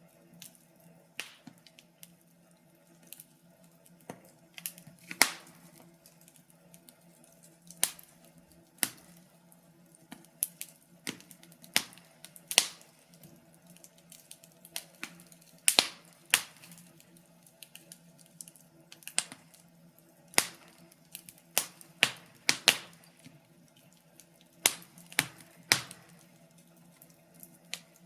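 Wood fire crackling, with sharp irregular pops and snaps a second or two apart over a faint steady low hum.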